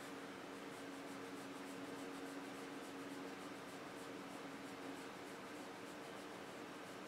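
A hand rubbing and scratching a Chow Chow puppy's fur: a faint, rhythmic brushing at about three or four strokes a second, over a steady low hum.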